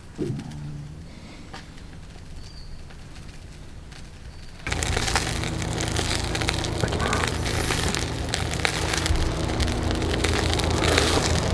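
Fairly quiet at first. About four and a half seconds in, a loud steady sizzling and crackling sets in suddenly, with a low steady hum underneath: pork belly rolls frying in a mess tin over a charcoal shichirin grill.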